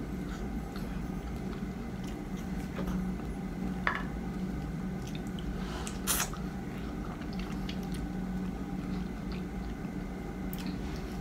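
Close-up mouth sounds of someone biting and chewing soft, ripe baby mangoes: wet squishing and smacking, with a few sharp clicks, the loudest about four and six seconds in, over a steady low hum.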